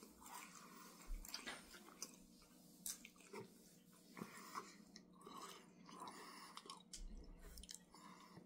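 Faint chewing and crunching of Takis Chippz BBQ Blast potato chips, a few soft scattered crunches.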